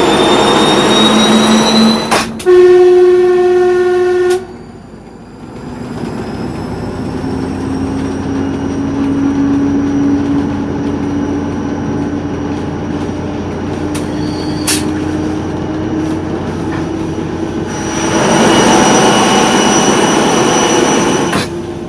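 TEP70 diesel locomotive under way: its turbocharger whistles, rising in pitch over the first seconds. A single horn blast of about two seconds follows. Then the diesel's note rises slowly under a steady high turbo whistle, and loud rushing noise swells again near the end.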